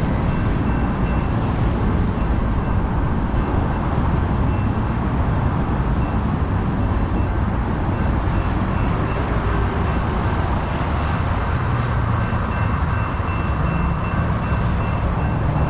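Freight train rolling past on the rails with a loud, steady rumble. A faint high tone pulses on and off above it.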